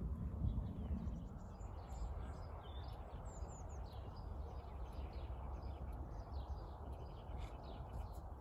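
Small birds chirping and twittering in short high calls over a steady low background rumble.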